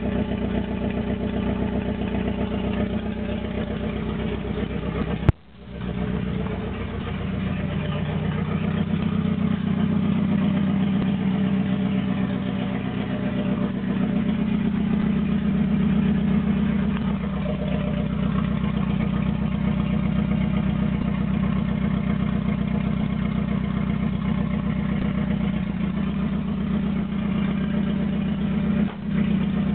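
Naturally aspirated Toyota 4A-GZE 1.6-litre four-cylinder engine idling roughly, with no exhaust past the downpipe, so it sounds open and unmuffled; it has trouble holding its idle. A sharp click about five seconds in, followed by a brief dip in the sound.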